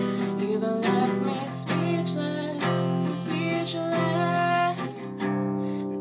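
Acoustic guitar strumming chords, a fresh strum roughly every second.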